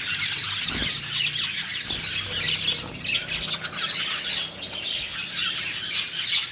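Several lovebirds squawking and chirping at once, a steady, busy chatter of overlapping shrill calls.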